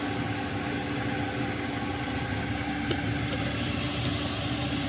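Chinese diesel air heater running steadily: a constant fan hum with a few fixed tones over a rush of blown air, with one faint click about three seconds in.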